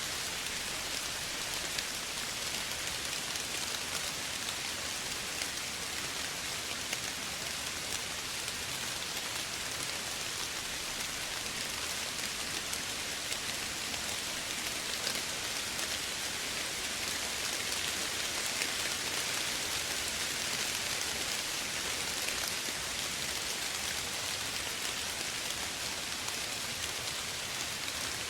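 Steady soft rain falling, an even hiss of many drops landing on surfaces, with fine individual drop patter throughout.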